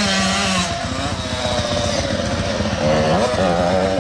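Motocross bike engines revving on the track, rising in pitch about a second before the start, holding briefly, dropping, then revving up again near the three-second mark as the riders work the throttle.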